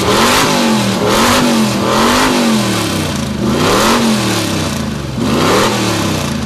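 A 1968 Chevy Nova's engine is revved through open, uncapped exhaust headers. It is revved about five times, and the pitch climbs and falls back with each rev. It is loud.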